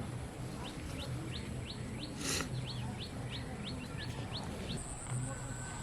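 An animal's call: a quick run of short, rising chirps, about three a second, that stops near the end, over a steady high-pitched whine of night insects. A short rustle comes about two seconds in.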